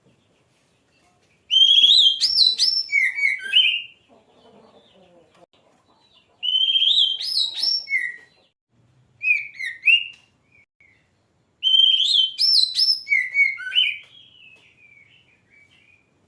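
Oriental magpie-robin (kacer) singing: four bursts of rapid, varied whistled phrases, with short pauses between them.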